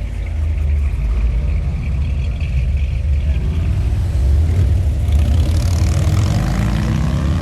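A vehicle engine running with a heavy low rumble, then revving up: its pitch rises steadily over the last couple of seconds as it accelerates.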